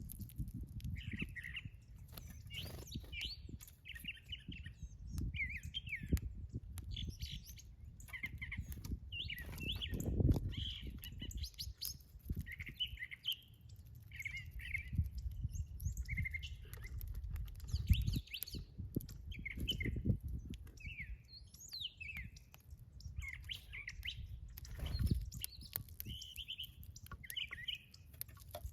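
Small birds chirping: short, sharp calls repeated about once a second. Beneath them runs a steady low rumble with a few louder thumps.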